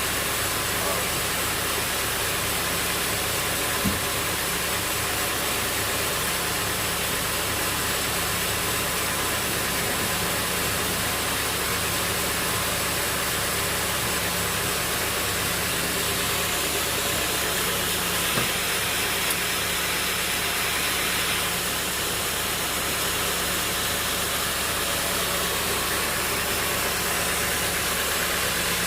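Sawmill machinery running steadily: a constant motor hum under an even mechanical noise, with a few brief knocks, one about four seconds in and two close together just past halfway.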